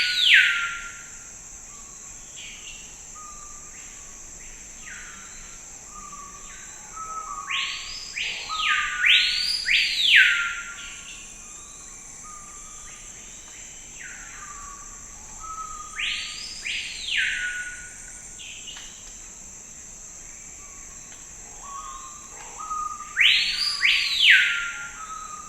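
Forest birds calling: loud swooping whistles that rise and fall, mostly in pairs, coming about every seven or eight seconds, with softer short chirps between them. Underneath is a steady high-pitched insect drone.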